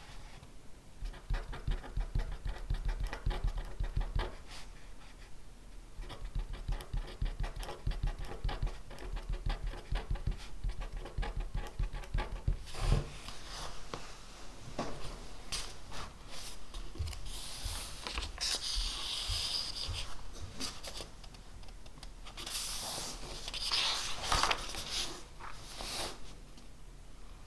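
Pen writing on paper in quick scratchy strokes, with a single knock on the desk about halfway through. It is followed by two longer rubbing sounds of a few seconds each against the paper.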